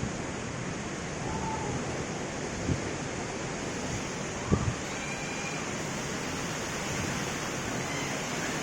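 Heavy rain and gusting wind making a steady rushing noise, with two short thumps about three and four and a half seconds in.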